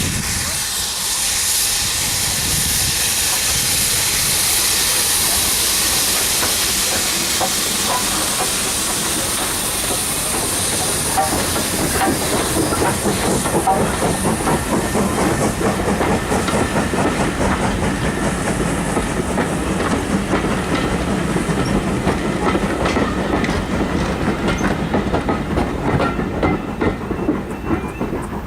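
Two steam locomotives, BR Standard Class 4MT 2-6-0 No. 76084 leading and S&DJR 7F 2-8-0 No. 53809, double-heading a train past. A loud hiss of steam fills the first ten seconds or so, then the wheels click rapidly over the rail joints as the carriages go by, fading near the end.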